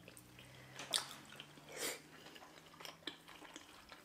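Faint, close-miked mouth sounds of someone eating fufu dipped in soup by hand: soft chewing with a few short wet smacks, the sharpest about a second in and another near two seconds.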